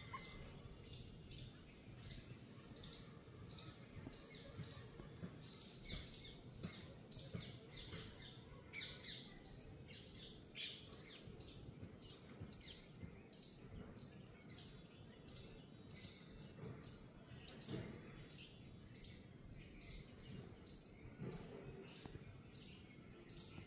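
A small bird repeats a short, high chirp about twice a second, with other bird calls joining in around the middle, over a low steady background noise.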